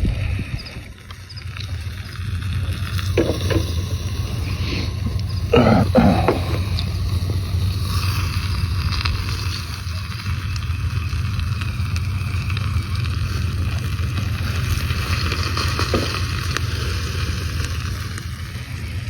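Portable gas stove burner running steadily with a low roar under cooking food, with a few short knocks about three and six seconds in.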